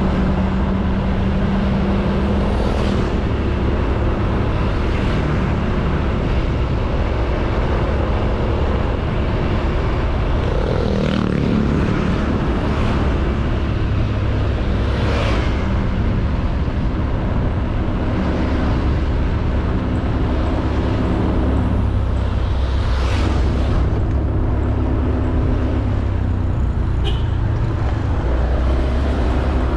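Honda Beat 110cc scooter running at a steady cruise, with wind rumble on the microphone and road noise. Other traffic swells past a few times, around 11, 15 and 23 seconds in.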